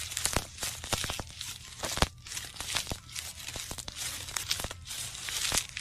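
Plastic water bag crinkling and tearing: an irregular run of sharp crackles and rustles.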